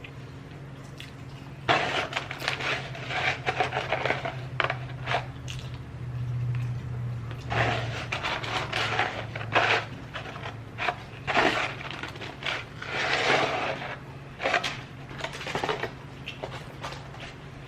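Close-up eating sounds: chewing of a McDonald's burger and nuggets, with irregular clicks, crackles and scrapes of handling food, starting about two seconds in. A steady low hum runs underneath.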